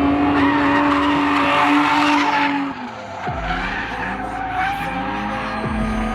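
Drift car sliding, its engine held at high revs over loud tyre skidding. About three seconds in the engine note drops sharply and the tyre noise eases, then the engine picks up again and holds a steady pitch, with another quick dip near the end.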